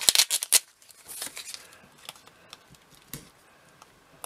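Comic books in plastic sleeves being handled and shuffled. A quick cluster of crisp rustles comes in the first second, then a few fainter rustles and light taps.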